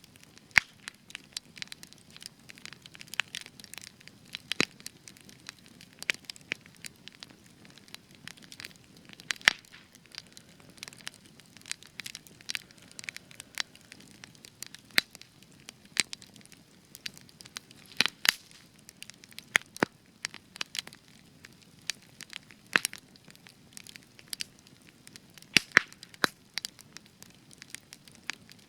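Spruce wood burning in a campfire, crackling with irregular sharp pops and snaps over a soft low rush of flame.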